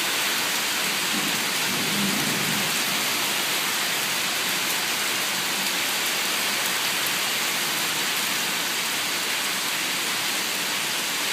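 Steady rain shower falling, an even hiss that does not let up.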